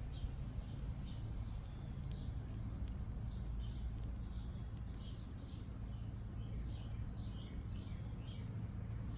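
A small bird chirping over and over in short falling notes, about two a second, while burning twigs give off a few sharp crackles. A steady low hum runs underneath.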